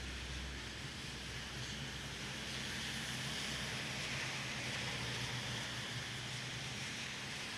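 Steady hiss of rain falling on a city street, with the low, even hum of an idling vehicle engine underneath. No thunder is heard.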